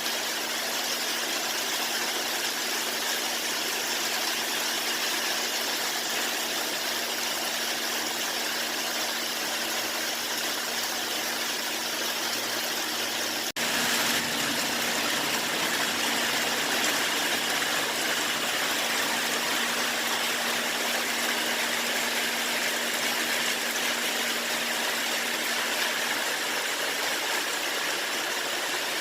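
Steady rain falling: a continuous even hiss, with a steady low hum underneath. It breaks off for an instant about halfway through and resumes slightly louder.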